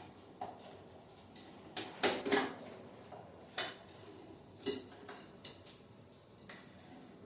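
Irregular light metallic clinks and knocks, about a dozen over several seconds, as hard metal objects are handled and set down.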